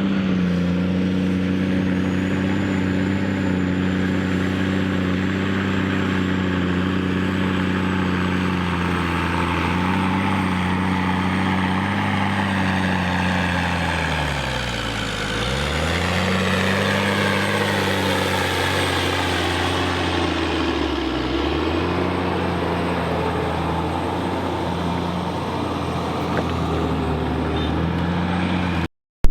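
New Holland 6090 tractor's diesel engine running steadily as it hauls a Caterpillar scraper pan, its tone sweeping twice near the middle as the machine moves relative to the listener. The sound cuts out abruptly just before the end.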